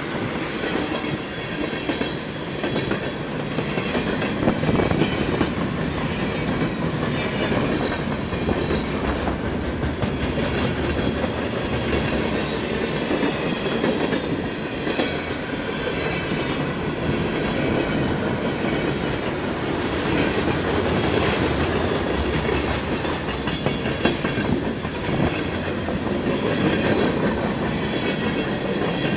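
A train's cars rolling past at trackside: a steady rumble and clatter of wheels on the rails, with faint high wheel squeal.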